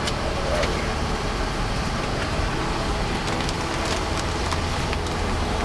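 Steady rushing hum of an Airbus A330 cockpit on the ground before engine start: ventilation and equipment noise, with a few faint clicks.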